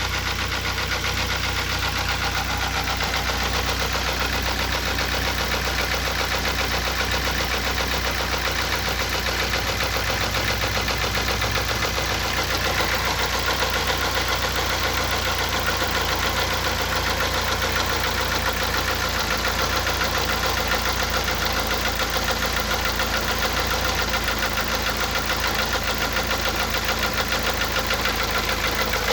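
Mazda Tribute / Ford Escape engine idling steadily with a fast, regular knock in time with the engine. The owner cannot tell what is causing it.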